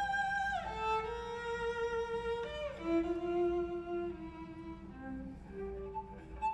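Solo cello bowed in long held notes, sliding down in pitch twice in the first three seconds, then moving on to lower held notes.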